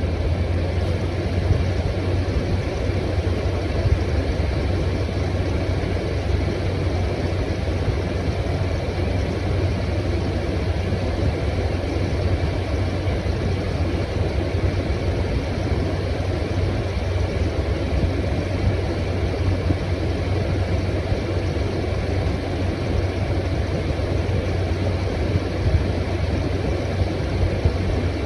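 Room air conditioner running steadily: the rush of its fan over a strong low hum from the compressor.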